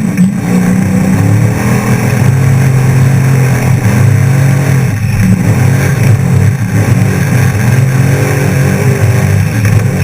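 Off-road trophy truck's engine running hard at speed, loud and steady, with a rushing noise over it.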